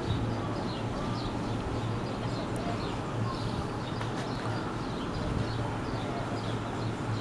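Birds chirping over and over, several short calls a second, over a steady low hum and outdoor background noise.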